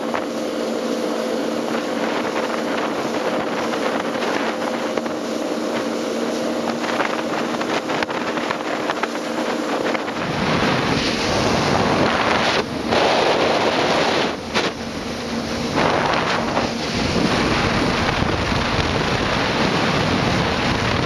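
Jet ski engine running steadily with a constant hum, then, about halfway through, wind on the microphone and rushing water grow loud and cover the engine, cutting out briefly twice.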